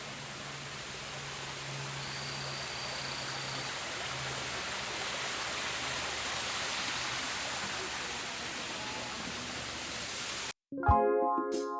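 Steady rush of running water, as from a garden stream or small waterfall. It stops abruptly near the end, and piano music starts.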